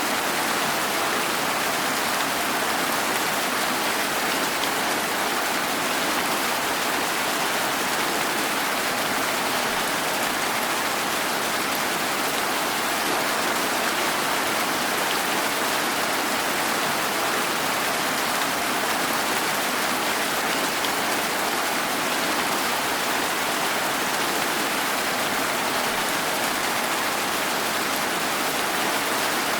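Steady rain falling without a break, an even hiss with no distinct drops or thunder.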